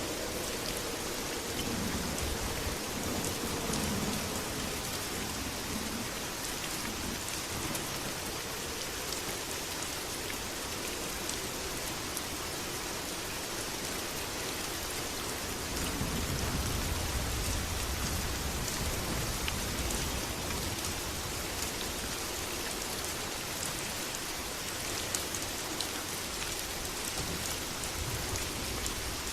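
Steady heavy rain falling, with low rumbles of distant thunder swelling twice, a couple of seconds in and again about halfway through.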